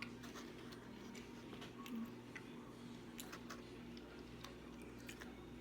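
Faint, irregular mouth clicks and chewing from someone eating a Froot Loops–topped donut, over a steady low hum.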